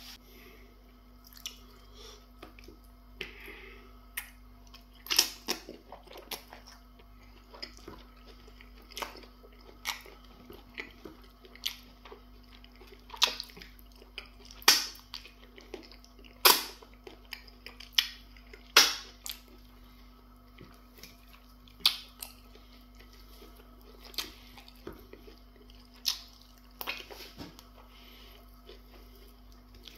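Close-miked mouth sounds of eating soft fufu with slimy okra soup by hand: chewing and lip smacks in irregular sharp smacks, with a cluster of louder ones through the middle.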